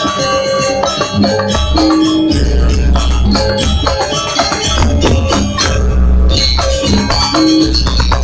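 Balinese janger dance music: percussion and pitched instruments playing together over a low bass that pulses in a repeating pattern.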